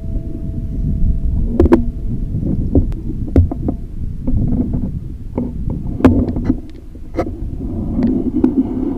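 Wind rumbling on the microphone outdoors, with scattered rustles and sharp knocks from handling or movement close to the microphone.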